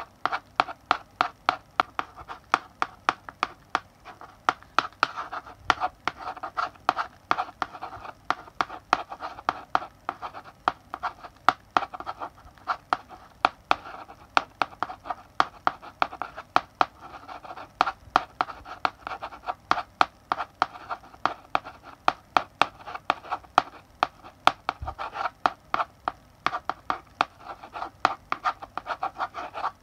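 Chalk writing on a blackboard: quick, irregular taps and short scratchy strokes, several a second, as letters are written.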